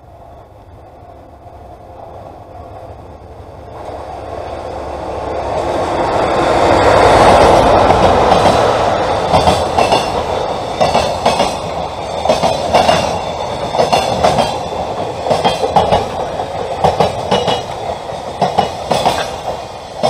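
A train approaching and passing close by: a rising rumble that peaks about seven seconds in, followed by a long run of rhythmic wheel clacks over the rail joints as the cars go past.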